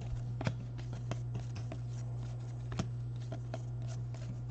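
Trading cards being handled and slid past one another in the hand, giving scattered soft clicks and rustles over a steady low hum.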